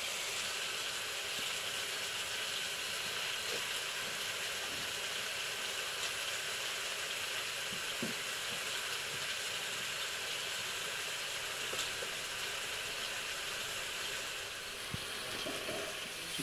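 Broiler chicken frying in mustard oil in a wok over a wood fire, sizzling steadily, with a few faint pops.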